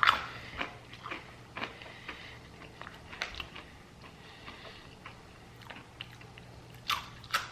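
A person chewing freeze-dried fruit close to the microphone: irregular small, crisp crunches, with a couple of louder ones near the end.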